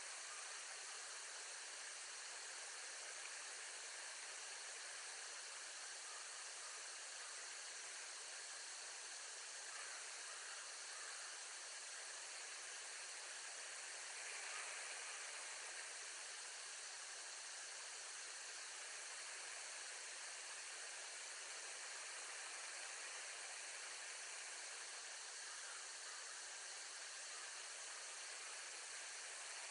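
Steady, faint hiss with nothing else standing out, swelling slightly about halfway through.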